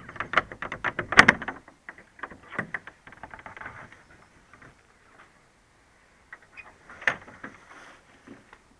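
A run of short clicks, clatters and knocks, dense for the first couple of seconds, sparse in the middle, then a few more about seven seconds in.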